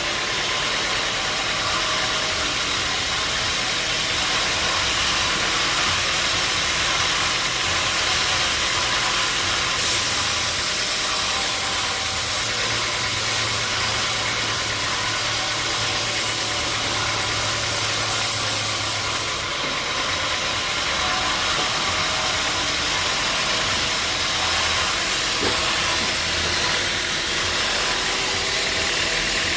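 Sawmill machinery running steadily with a loud hissing noise. A low hum joins it about ten seconds in and drops out again around twenty seconds.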